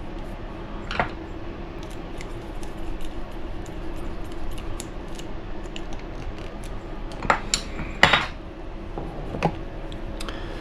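Small metal parts and hand tools clicking and clinking on a workbench as a nut is fitted onto a button-head screw through an RC buggy's servo. The clicks are scattered and irregular, with a few sharper ones about a second in and between seven and nine and a half seconds in.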